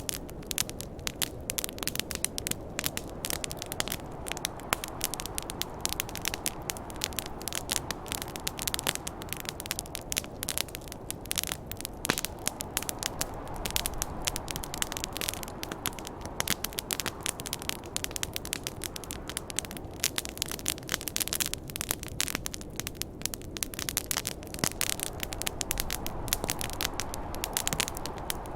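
Wood campfire crackling, with dense sharp snaps and pops all through. Underneath runs a steady rushing noise of snowstorm wind that swells and eases.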